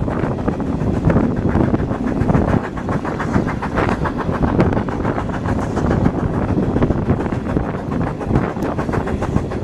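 Steam-hauled passenger train running, heard from a carriage window: a steady rumble with many short clicks of the wheels on the rails, and wind on the microphone.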